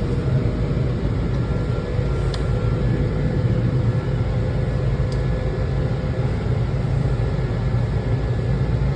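Steady rumble of a Washington Metro Red Line railcar heard from inside the car, with a faint steady whine over it.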